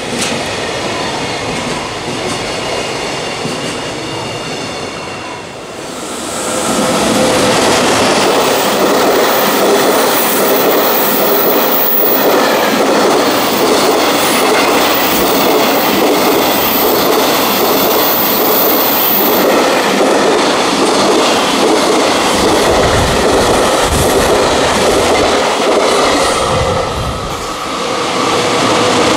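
Freight train running past: a steady rumble and clatter of wagon wheels on the rails, growing louder about six seconds in and staying loud, with a short dip near the end.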